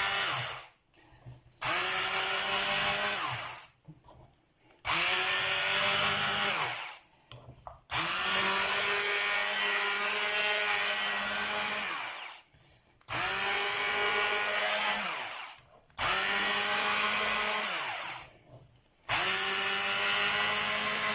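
Kenwood hand blender with its masher attachment mashing potatoes, its motor whining in about six separate runs of two to four seconds. The whine drops in pitch as the motor winds down at each release.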